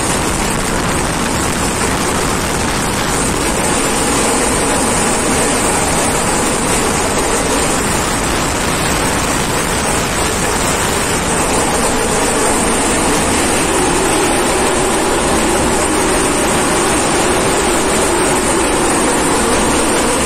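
Loud, steady running noise of a passenger train at speed, heard at an open coach door: wheels rolling on the rails and air rushing past.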